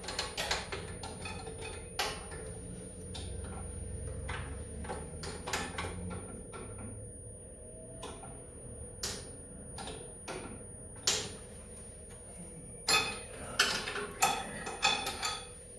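Hand tools and metal engine parts clinking and clicking while a snowmobile engine is worked on: irregular sharp metallic clicks, with a cluster of louder clinks near the end.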